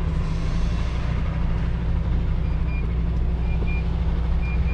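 MAN TGX truck's diesel engine running steadily, heard from inside the cab, with faint short high beeps of a reversing alarm repeating at uneven intervals.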